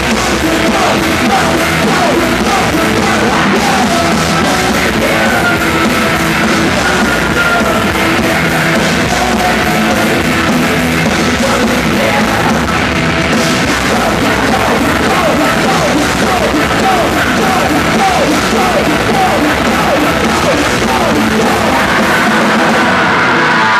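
Live rock band playing loudly, with a drum kit and yelled, sung vocals.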